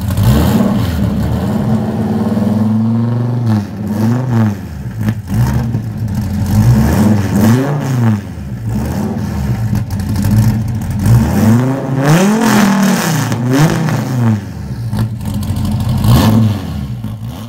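The 8.4-litre V10 of a heads-and-cam 2016 Dodge Viper ACR, running through 3-inch straight pipes with the mufflers removed, is revved again and again. Each rev climbs and drops back to idle; there are about eight of them, one held longer about two seconds in.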